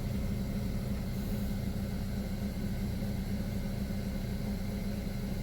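Buick Verano four-cylinder engine idling steadily with a low, even hum, running on newly replaced intake and exhaust camshaft position actuator solenoids.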